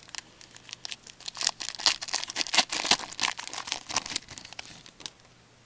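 Foil wrapper of a hockey card pack being torn open and crinkled by hand, a quick run of sharp crackles that dies away about five seconds in.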